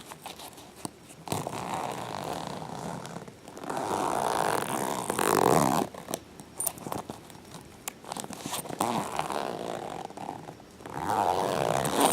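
Soft-sided faux-leather cat carrier being rubbed and scratched by hand, in several swells of scraping rustle a second or two long.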